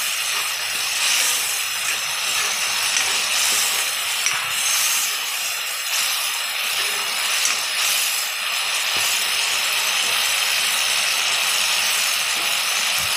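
Onion and spice masala frying in mustard oil in a metal kadai, a steady sizzle. It is stirred with a metal spoon for roughly the first eight seconds, then sizzles evenly on its own.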